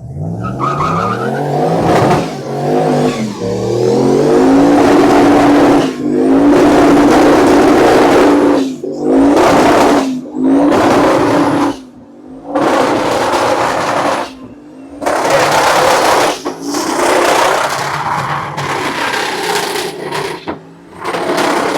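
A car doing a burnout: the engine revs up and is held at high revs over the hiss of spinning tires, then is revved in a series of loud bursts, each dropping off briefly before the next.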